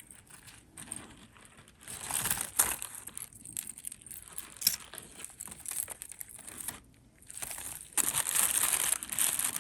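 Crinkling and rustling as a jumble of jewelry is sorted by hand: a short burst about two seconds in and a longer, louder stretch near the end.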